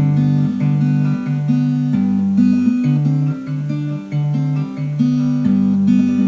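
Acoustic guitar playing the instrumental introduction to a song, strummed chords in a steady rhythm with no singing.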